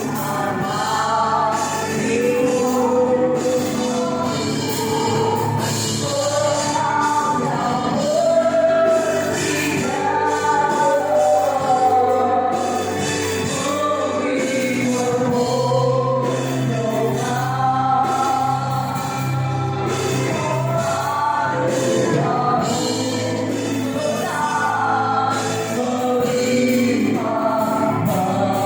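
Several voices singing a gospel worship song together over instrumental accompaniment with steady bass notes.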